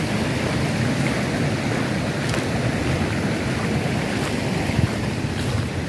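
Wind buffeting the camera microphone outdoors: a steady low rumbling noise with a few faint ticks.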